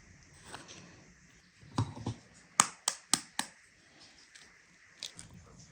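Kitchenware knocking while dough ingredients go into a bowl: two dull knocks, then four sharp taps in quick succession.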